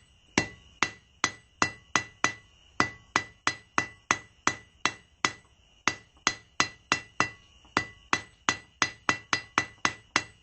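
Hand hammer striking hot 3/8 inch square steel bar on an anvil in a steady rhythm, about two to three blows a second with a quicker run near the end, each blow ringing. The smith is drawing out and refining a square taper to a point.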